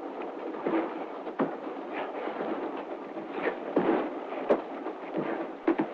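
Steady rattling rumble of a moving train on an early sound-film track, with irregular sharp knocks and bumps scattered through it.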